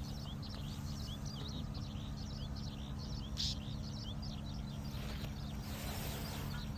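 Many small birds chirping continuously in short, rapid high notes, over a steady low rumble, with a brief rush of noise about three and a half seconds in.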